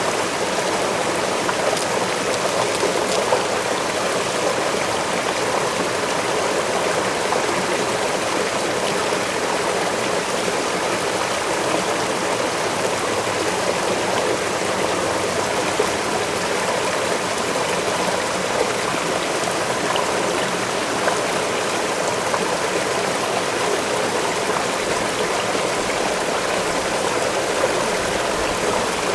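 Waterfall in a forest: water pouring and splashing in a steady, even rush with no breaks or changes.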